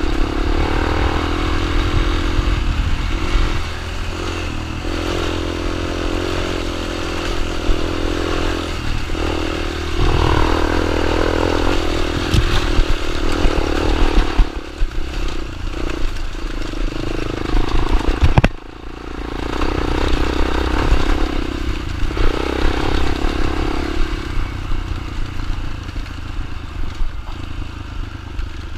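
Small dirt bike engine running, its pitch rising and falling as the throttle opens and closes. It drops away suddenly about two-thirds of the way in, then picks up again.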